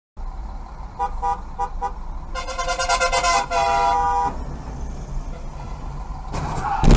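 Car horn honking: four short toots about a second in, then a long blast of about two seconds, over steady road noise. Near the end comes a sudden loud crash, the loudest sound here.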